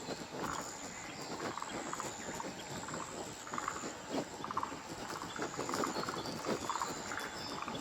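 A chorus of spring cicadas (haruzemi) calling: many overlapping short, raspy, croaking phrases repeating about every half second, with a thin high continuous buzz above them.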